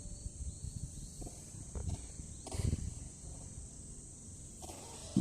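Outdoor ambience: a steady high insect drone over a low rumble, with a couple of soft knocks about two seconds in.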